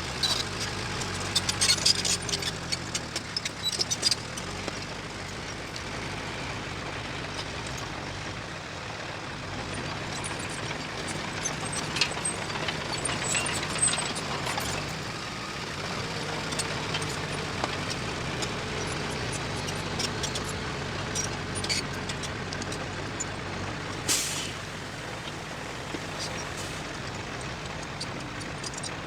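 Diesel engines of heavy earthmoving machinery, a bulldozer and a dump truck, running steadily with scattered metallic clanks. A short sharp hiss of air comes about 24 seconds in.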